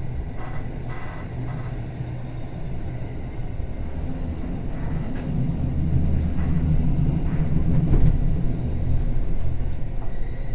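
Bernina Express train running: a steady low rumble of the carriage and its wheels on the rails, growing louder in the middle, with a few light clicks.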